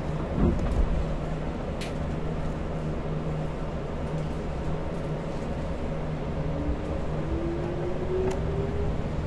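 Hanshin Electric Railway train pulling out of a station, heard from inside the car: a steady running rumble with a thump about half a second in, and a motor whine rising in pitch from about two-thirds of the way through as the train gathers speed.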